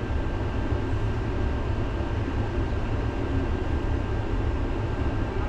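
Tram running along its rails, heard from inside the car: a steady low rumble of wheels and running gear with a faint steady high tone over it.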